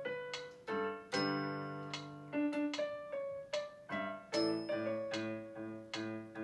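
Piano being played in a slow passage: single notes and chords struck and left to ring, then from about four seconds in a steady run of repeated chords, two or three a second.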